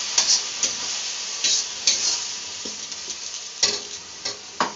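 Sliced onions and ginger-garlic paste sizzling in hot oil in a wok while a spatula stirs them, with sharp scrapes and knocks of the spatula against the pan every second or so. The sizzle eases near the end.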